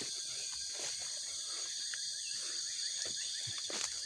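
Steady, high-pitched chorus of insects, several layered buzzing tones, with a few faint knocks or footfalls.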